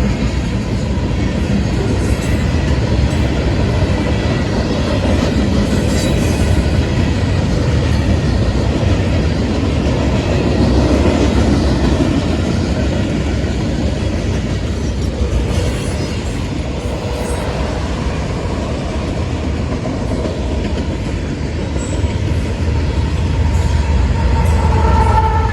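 Freight train rolling past at speed: a long string of manifest cars rumbling and clacking over the rails. A mid-train diesel locomotive, a GE AC44CW-type DPU, goes by partway through.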